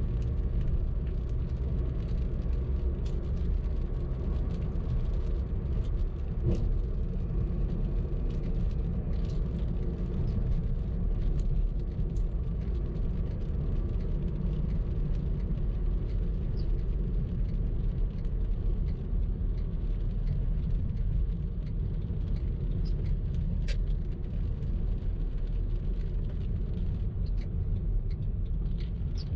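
A car driving in traffic: a steady low rumble of engine and road noise with a faint hum, and a few scattered light clicks.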